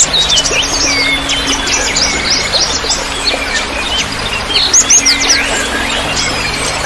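A dense chorus of mixed small songbirds chirping and twittering, many overlapping calls at once, over a steady hiss of trickling water. A few louder, sharper calls stand out a little past the middle.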